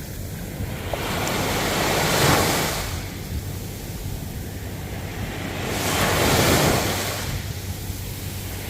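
Ocean waves surging and washing in, two waves swelling and fading about four seconds apart, over a steady low rumble of wind on the microphone.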